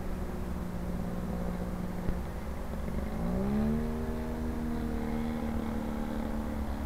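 Engine and propeller of a 40%-scale Pilot SBach radio-control aerobatic plane in flight, running steadily, then throttled up about three seconds in, its pitch rising and then holding.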